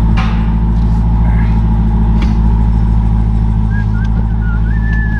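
2023 Dodge Durango SRT Hellcat's supercharged 6.2-litre V8 idling steadily through an exhaust with its mufflers cut off (muffler delete).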